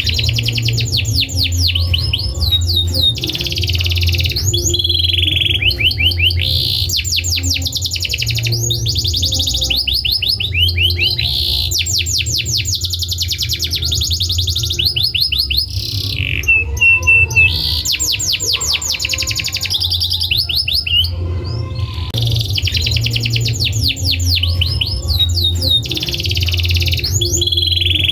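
Domestic canary singing a long, continuous song of rapid trills and rolls, broken by a few brief pauses, over a steady low hum.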